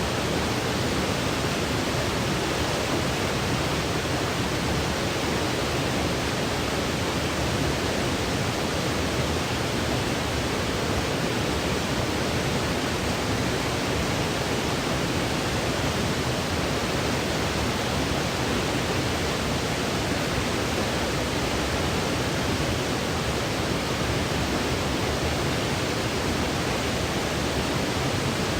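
Steady electronic white noise for baby sleep: an even, unbroken hiss with more weight in the low end, the same throughout.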